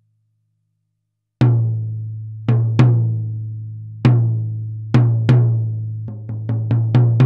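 1950s Gretsch tom-tom with a maple-poplar-maple shell and stick chopper hoops, struck with a stick and unprocessed. The hits start about a second and a half in: six single strokes, each with a deep ringing note that dies away slowly, then a quicker run of lighter strokes near the end.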